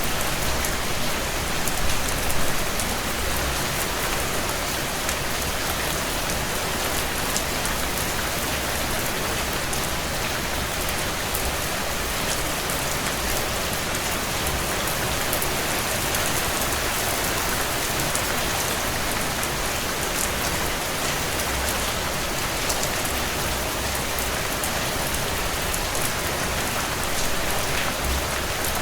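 Steady heavy rain on window glass, a dense even hiss of drops, with sharp crackles from a wood fire in a stone fireplace scattered through it. A couple of soft low bumps come about two seconds in.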